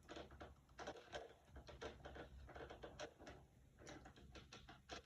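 Faint, scattered clicks and taps of small plastic parts being handled and pushed back onto a toy helicopter model.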